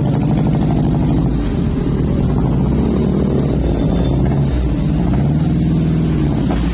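Mitsubishi Colt T120SS engine running through an aftermarket racing header exhaust with a side muffler and a rear muffler. It runs steadily, its pitch rising and falling slightly.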